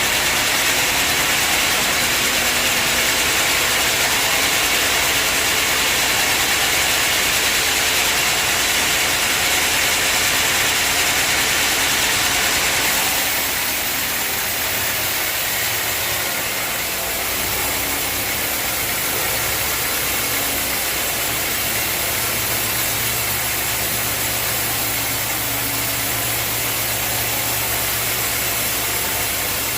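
Sawmill machinery running steadily. A loud, dense hiss of the saw at work fills roughly the first half and eases about halfway through, leaving a steady low mechanical hum.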